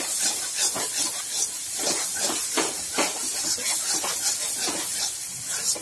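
Masala paste of onion, tomato, garlic and ginger sizzling in oil in a metal kadai, with a metal spatula scraping and stirring it in quick strokes about three times a second. The masala is fully fried and has started to release its oil.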